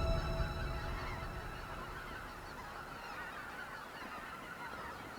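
A large flock of sandhill cranes calling together, a dense overlapping chatter of rolling calls, while the soundtrack music fades out in the first moment.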